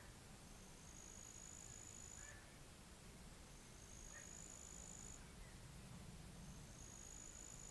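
Faint pond-side nature ambience: a thin, high, drawn-out call, each about a second and a half long and rising slightly, repeats four times about every three seconds, over a few faint chirps and a low murmur.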